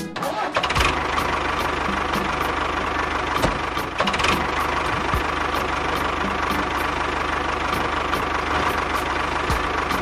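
Tractor engine running steadily, with a regular knock a little over two times a second.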